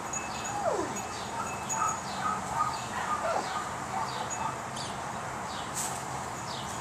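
Small bird chirping over and over, short falling chirps about two a second, with a single falling whine about a second in.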